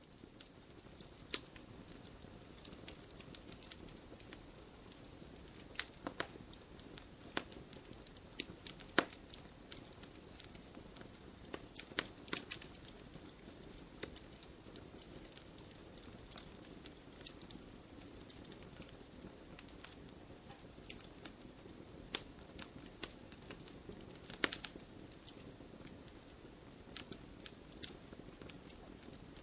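Campfire burning, with irregular sharp crackles and pops from the wood over a steady low hiss of the flames, a few snaps louder than the rest.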